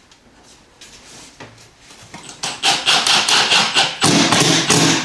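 Loud, rapid knocking and clattering of hardware being handled and fitted, starting about halfway in.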